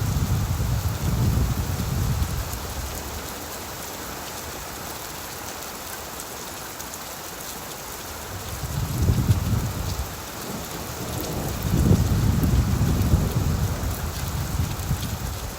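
Steady rain falling on leaves, with low rolls of thunder swelling up at the start and twice more in the second half.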